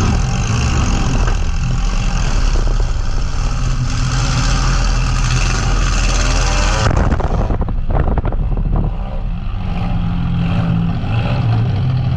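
Compact demolition derby car's engine running loud and hard, heard from inside the cab, then easing off suddenly about seven seconds in to a lower, steadier running note.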